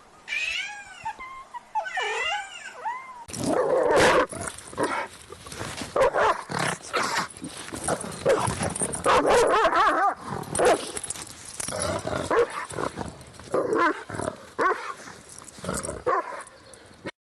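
A cat meows a few times, then from about three seconds in dogs bark and growl in a dense, continuous run until the sound cuts off near the end.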